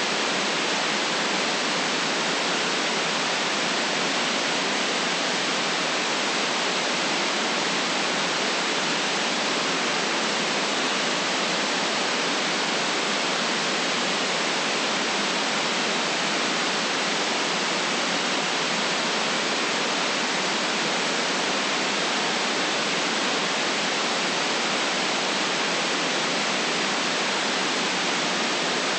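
Steady, unchanging synthetic noise: an even hiss with no lows, strongest in the upper middle and cut off sharply at the top.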